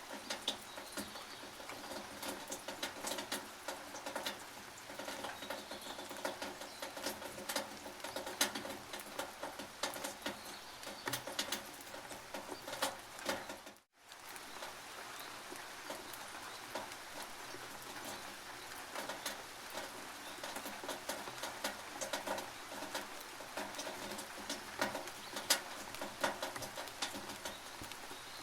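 Rain dripping and pattering on a tin roof: many sharp individual drops over a steady hiss. The sound cuts out for a split second about halfway through.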